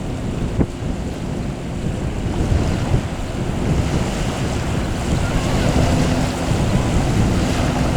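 Jet airliner engine noise, a steady deep rumble that grows a little louder, with wind buffeting the microphone.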